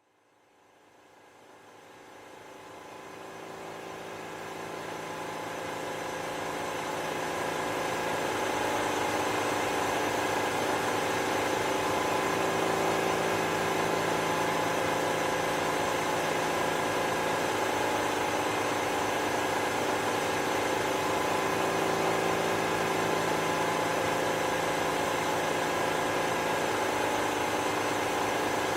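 An engine idling steadily. It fades in over the first eight seconds, then holds level.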